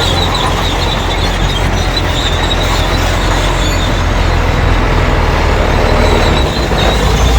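Crawler bulldozer working: its diesel engine runs with a steady low drone while the steel tracks give a continuous high squeal.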